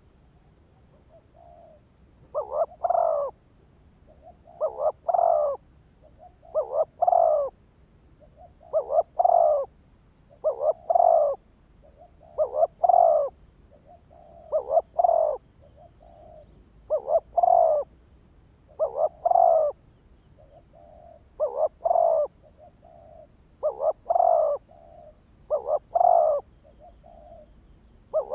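Spotted dove cooing its song over and over: a phrase of two short notes and a longer one about every two seconds, with softer notes between the phrases.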